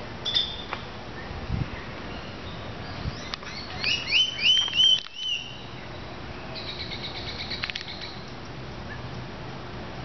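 Birds calling in a tropical garden: a run of about half a dozen loud, rising whistled notes between three and five seconds in, then a softer rapid trill a couple of seconds later.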